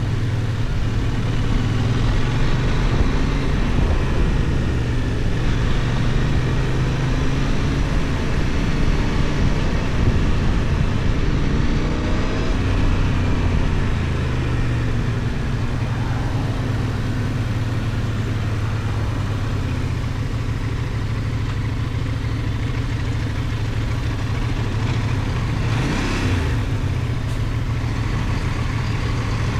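Benelli Tornado 550's 554 cc parallel-twin engine, 270° crank, running under way as the motorcycle is ridden, its note rising and falling with the throttle through the first half and steadier later. A brief rush of noise comes about 26 seconds in.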